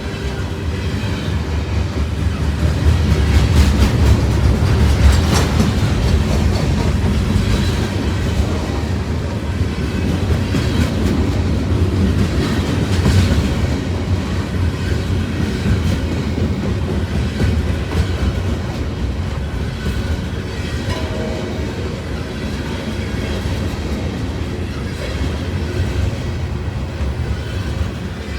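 Freight train cars rolling past, a steady rumble with wheels clicking over the rail joints, loudest a few seconds in and easing slightly after.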